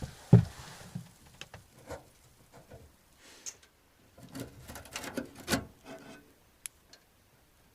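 Irregular knocks, taps and rustles of things being handled while the steaks are readied for the stove, with a sharper knock about half a second in and a busier spell of taps toward the end.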